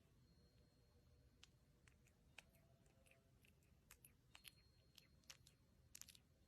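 Near silence with faint, irregular small clicks, more of them in the second half.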